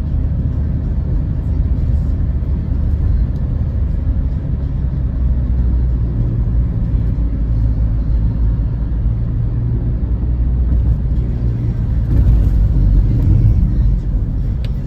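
Car driving at steady speed, heard from inside the cabin: a continuous low rumble of road and engine noise. It gets a little louder and hissier about twelve seconds in.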